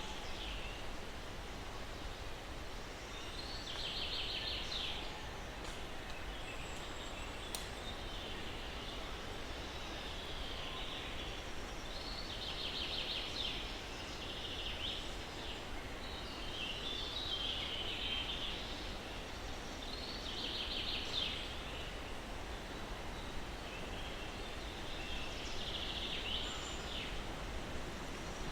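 Steady soft breeze rustling through pine trees, with a songbird singing short trilled phrases every few seconds.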